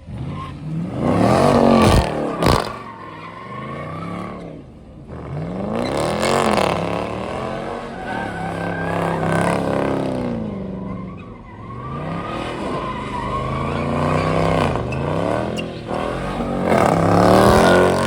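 Car engine revved hard again and again, its pitch climbing and dropping with each rev. Two sharp pops come about two seconds in.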